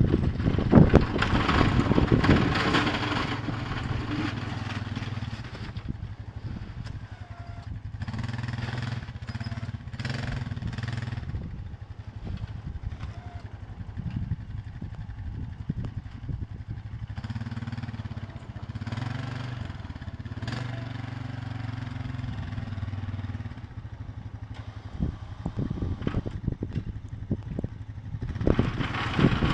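An engine running, its low hum swelling and easing in stretches, with gusts of wind buffeting the microphone at the start and near the end.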